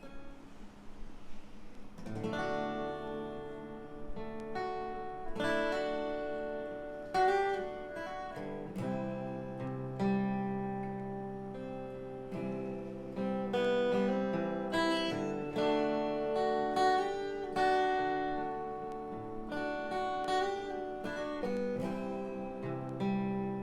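Acoustic guitar intro: plucked and strummed chords with melody notes, starting about two seconds in.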